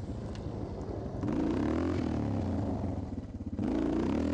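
Suzuki DR650 single-cylinder four-stroke dirt-bike engine revving under load on a steep dirt hill climb. The engine note rises and falls as the throttle is worked, drops back about three seconds in, then picks up strongly again near the end.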